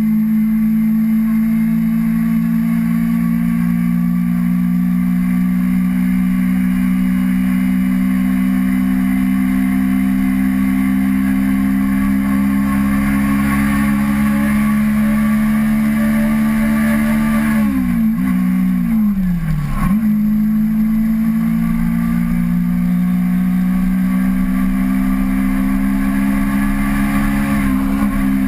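Kawasaki Ninja 250R parallel-twin engine running under way at steady revs that creep slowly upward, over steady wind and road noise. About two-thirds of the way through, the revs dip sharply twice and pick back up, then hold steady again.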